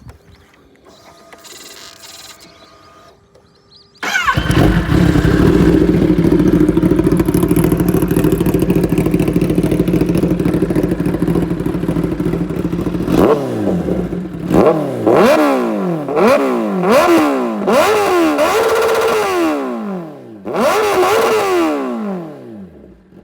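Kawasaki ZX-10R inline-four with an SC-Project short-can exhaust starting suddenly about four seconds in and idling loud. From about thirteen seconds it is revved in a string of quick blips that rise and fall sharply, and it drops back to low revs near the end. The exhaust is very loud.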